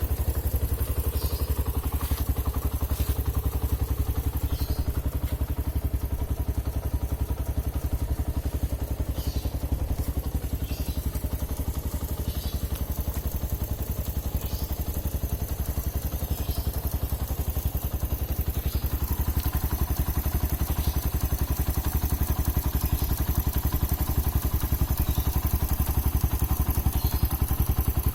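Suzuki Thunder single-cylinder motorcycle engine running steadily at idle through a hollowed-out (bobokan) exhaust, giving an even, low exhaust beat.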